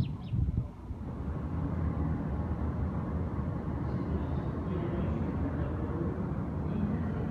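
Steady low rumble of an SBB double-deck passenger train rolling along a station platform.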